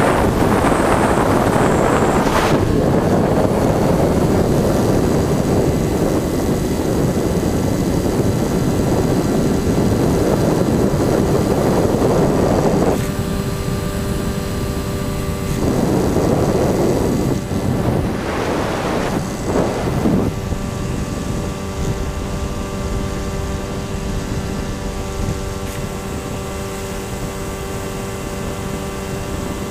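Electric motors and propellers of a Finwing Air Titan RC plane in flight, heard with rushing wind on the microphone. The wind noise dominates at first. About thirteen seconds in, it drops and a steady motor-and-propeller hum comes through, with a few more gusts of wind.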